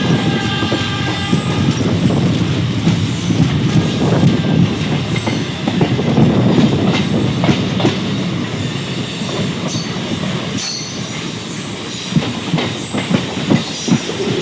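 Train running on the track: a steady rumble with the rhythmic clatter of wheels over rail joints, and brief high wheel squeals about two-thirds of the way through. The last of a train horn fades out in the first second or two.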